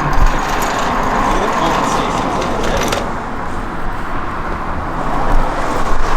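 Motor vehicle noise: a steady, loud drone from a running car with no clear pitch, easing slightly about three seconds in.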